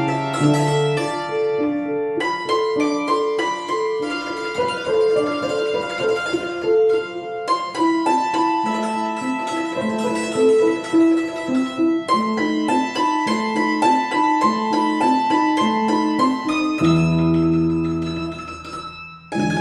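Plucked string instrument with piano accompaniment playing a quick, lively tune of short notes. Near the end it settles onto long-held low chords that fade away.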